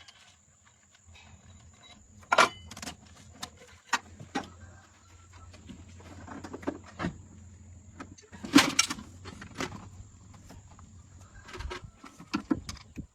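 A few sharp knocks and clicks, two of them much louder than the rest, over a low steady hum that starts about a second in.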